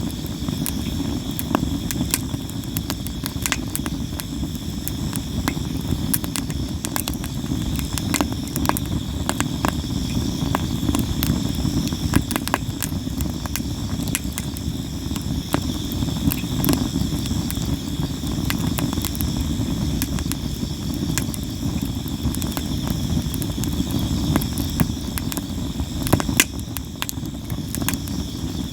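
Campfire of sawara cypress wood crackling and popping, with frequent sharp snaps over a low steady rumble. Insects chirp steadily in the background.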